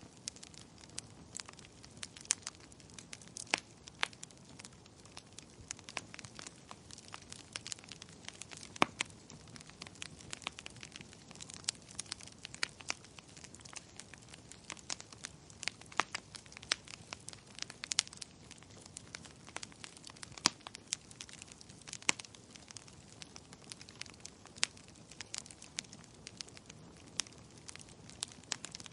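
Fire crackling in a fireplace: irregular sharp pops and snaps, several a second, over a soft steady rush of flames.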